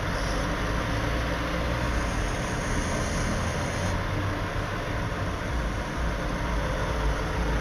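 Tow truck's engine running steadily with a low rumble as it lifts a crashed car onto its bed.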